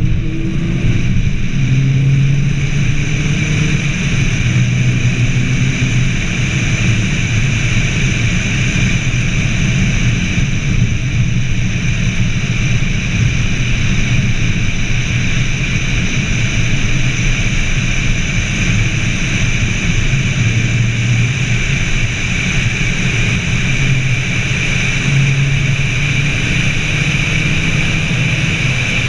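BMW Z4 sDrive23i's 2.5-litre straight-six running at a steady cruise, its low hum rising and falling a little, under a constant rush of wind and road noise at a hood-mounted camera.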